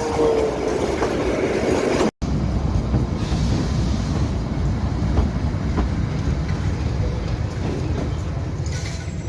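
Kalka–Shimla narrow-gauge toy train running along the track, a steady rumble with the wheels clicking over the rails. The sound breaks off for a moment about two seconds in.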